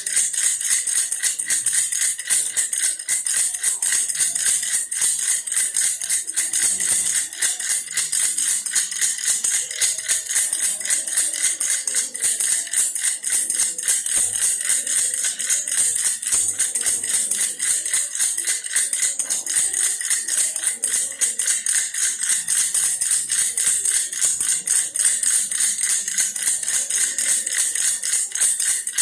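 Baby toy bear rattle shaken steadily and rapidly, an unbroken stream of bright beady rattling.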